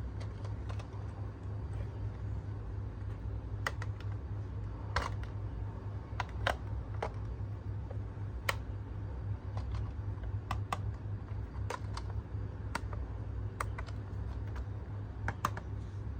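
Irregular sharp clicks and taps, about twenty of them spread unevenly, over a steady low hum.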